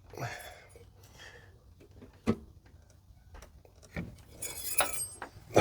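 Scattered light knocks and rubbing as a cylinder head is maneuvered by hand over the engine block, with a sharp knock a little over two seconds in, another about four seconds in, and a rustling scrape near the end.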